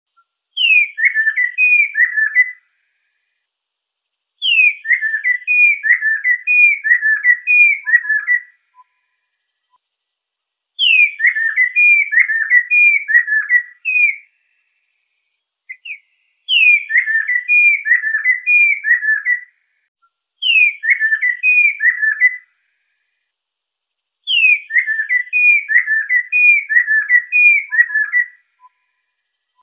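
Lesser necklaced laughingthrush singing: six phrases of loud, clear whistled notes, each phrase opening with a high falling note and then a quick run of falling slurred whistles, with pauses of about two seconds between phrases.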